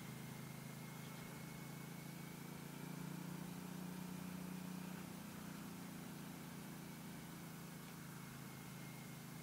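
Aprilia Dorsoduro's V-twin engine running at low, steady revs as the motorcycle rides slowly, with a slight rise in engine sound about three seconds in that eases off after a couple of seconds.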